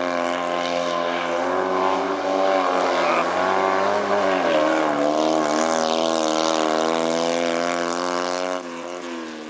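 Fiat 126p rally car's engine running hard at high revs as the car drives the stage, its note wavering. The pitch dips about four and a half seconds in, then climbs again, and the sound drops off sharply near the end.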